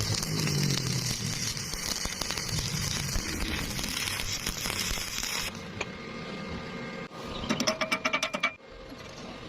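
Stick-welding arc crackling and hissing steadily, then cutting off abruptly about five and a half seconds in. Near the end comes a brief quick rattle of clicks, about ten a second.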